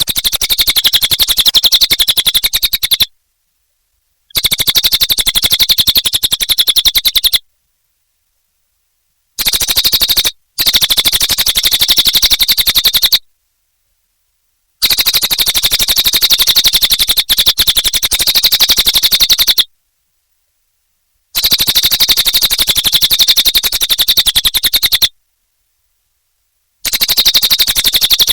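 Cililin bird singing: a loud, very fast trill of evenly repeated high notes in bursts of about three to five seconds, broken by short gaps of complete silence.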